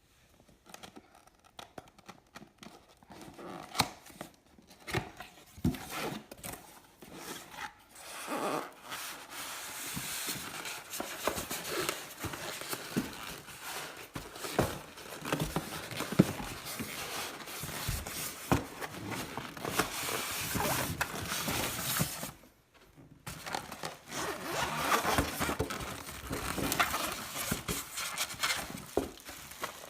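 Handling noises: irregular scraping, rubbing and rustling with scattered clicks, stopping briefly about three quarters of the way through.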